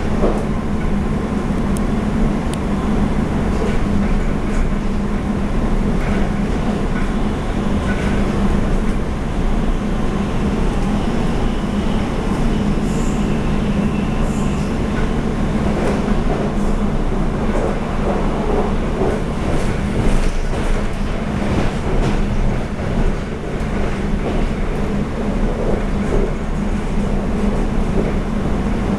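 Interior running noise of a Taiwan Railway EMU700 electric multiple unit heard from inside the passenger car: a steady rumble of wheels on rails under a low hum, with occasional faint clicks over rail joints.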